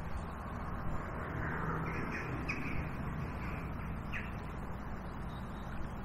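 A few short bird calls, crow-like, heard over a steady low background noise.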